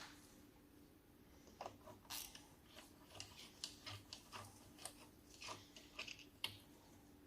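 Faint, irregular small clicks and scrapes of hand tools being handled, over a low steady hum.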